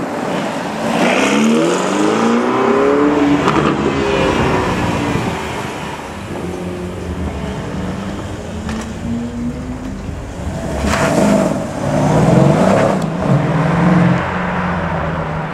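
Ferrari Portofino's twin-turbo V8 revving as it pulls past, then a Mercedes SL63 AMG's twin-turbo V8 accelerating away, its engine note climbing twice as it revs up. The second run is the loudest.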